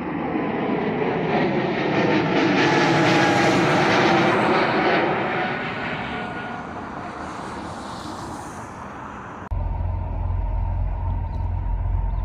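Jet airliner passing close by: its engine roar swells to a peak a few seconds in, then fades, with tones that slide down in pitch as it goes past. About nine and a half seconds in, the roar cuts off suddenly and a low rumble takes over.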